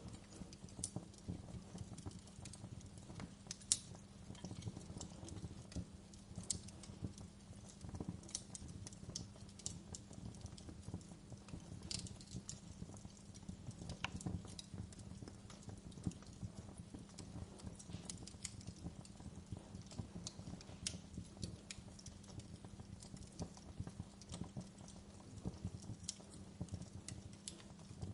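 Wood fire crackling in a fireplace: a continuous run of small irregular pops and snaps over a low steady rumble, with a sharper pop about four seconds in.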